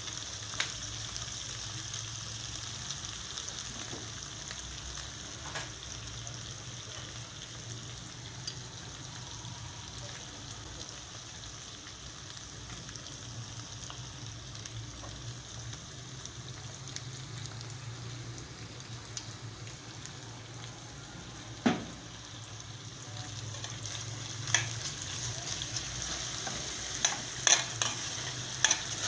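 Diced chicken pieces sizzling steadily in a frying pan, with occasional sharp clacks of a metal slotted spatula against the pan as it is stirred. The sizzle grows louder and the clacks come more often toward the end, when dark soy sauce is added.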